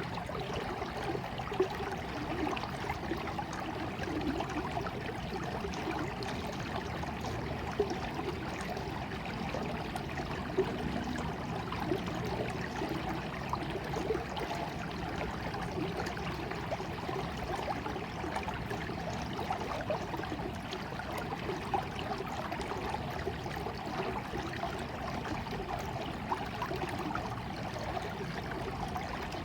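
Stream water flowing and trickling steadily, with now and then a brief louder splash.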